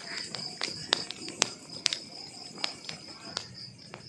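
Wood fire crackling: burning logs give irregular sharp pops and snaps, several a second, over a steady high-pitched tone.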